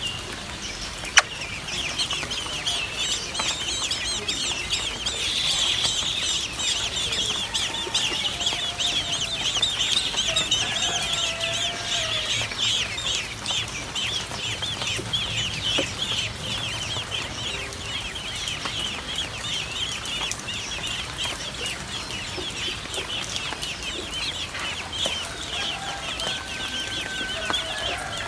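A crowd of young birds calling without a break in quick, high-pitched cheeps, with a few lower calls from an adult bird in between. A single sharp knock about a second in.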